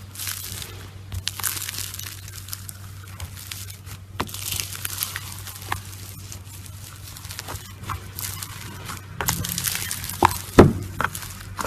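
Slime being squeezed and worked by hand: a steady crackly, crinkly squishing dotted with short clicks, with a cluster of sharper pops, the loudest about ten and a half seconds in.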